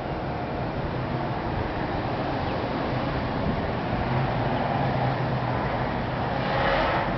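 Steady outdoor vehicle noise with a low rumble, swelling briefly near the end.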